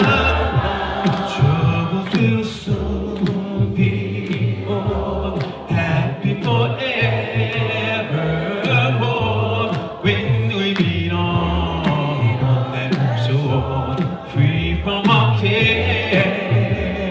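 Church congregation singing a gospel hymn together a cappella, many voices in harmony without instruments.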